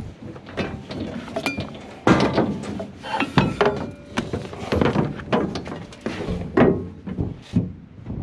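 Irregular metallic clanks, knocks and clinks of tools and parts being handled on a combine under repair, some with a brief ring.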